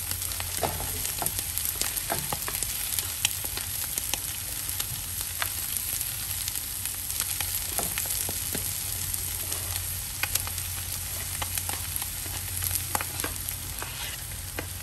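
Oil sizzling in a hot nonstick wok as riced cauliflower is pushed in from a wooden plate with a spatula. The sizzle is steady, with scattered sharp crackles and clicks.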